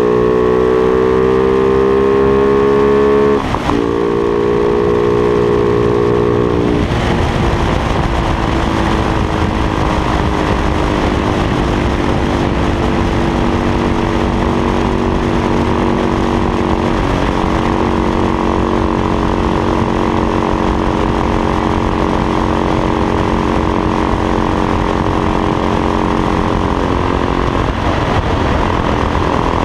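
Motorcycle engine pulling hard: its pitch climbs for about three seconds, breaks at an upshift, then holds nearly steady with another brief shift about halfway through. Wind rush on the microphone grows loud from about seven seconds in.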